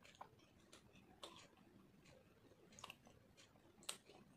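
Faint chewing of fried food, with soft, sharp mouth clicks every half second or so; the loudest click comes near the end.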